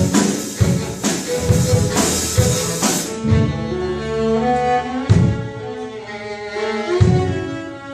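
String ensemble of violins and cellos playing over a drum beat. About three seconds in the bright, high hits drop away, leaving held string chords with a low drum hit every couple of seconds.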